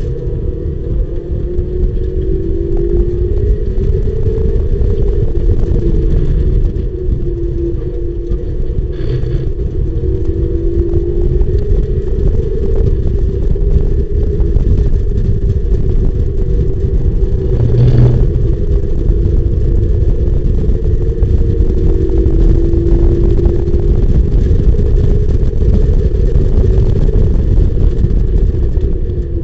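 Onboard sound of a Mazda MX-5 race car under hard acceleration: the four-cylinder engine climbs in pitch and drops back at each upshift, over a heavy low rumble. A brief thump about 18 seconds in.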